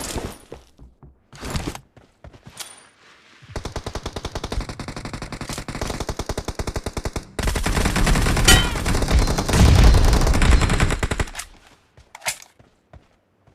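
Video-game automatic gunfire. A few scattered shots, then sustained rapid fire from about three and a half seconds in, louder and heavier from about seven seconds in. It stops near eleven seconds, with one last short burst near the end.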